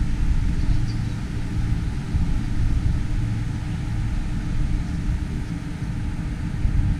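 Steady low rumble of wind buffeting the microphone in a snowstorm, flickering rapidly with the gusts.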